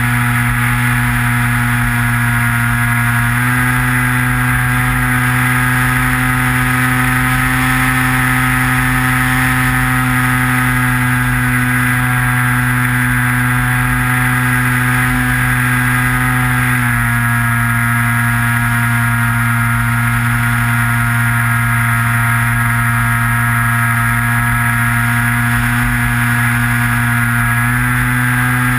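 Skywalker FPV model plane's electric motor and propeller droning steadily, heard from on board, with low wind rumble on the microphone. The pitch steps up about three seconds in, drops back at about seventeen seconds and rises again near the end, as the throttle is moved.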